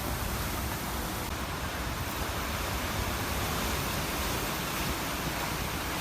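Strong mountain wind blowing over the microphone: a steady rushing hiss with a heavy low buffeting rumble.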